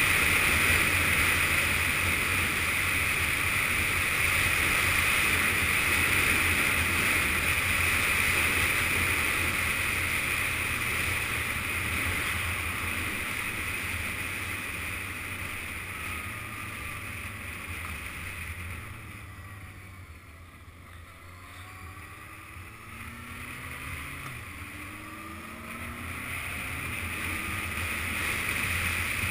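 Yamaha FZS600 Fazer inline-four motorcycle under way, engine running with wind rushing over an action-camera microphone. The sound dies down about two-thirds of the way through, then builds again with the engine pitch rising as it accelerates.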